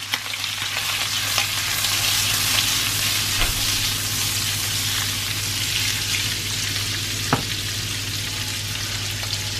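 Bacon and green beans sizzling in a non-stick frying pan as they are stirred and tossed, with a few sharp clicks from the pan or utensil.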